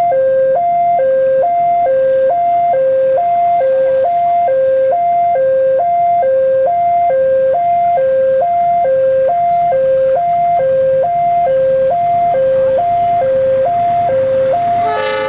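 Railway level-crossing warning alarm sounding: an electronic two-tone signal alternating high and low about three times a second, warning that a train is approaching.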